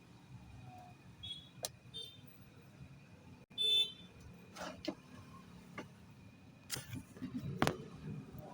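Low steady background rumble with three short, high beeps or toots, the third the loudest, and a few sharp clicks scattered through.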